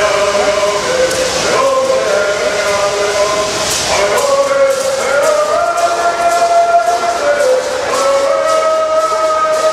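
A group of bird singers singing a Southern California bird song in unison, long held notes stepping up and down in pitch, over the hissing shake of gourd rattles.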